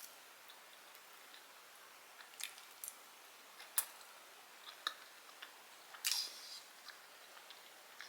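Quiet eating sounds as a home-cooked meal is tasted: scattered soft clicks and taps, with a short louder chewing sound about six seconds in.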